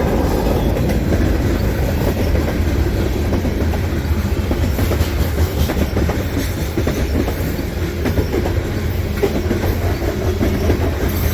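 Freight cars of a long mixed manifest train rolling past at speed: a steady, loud rumble with wheels clicking and clacking over the rail joints.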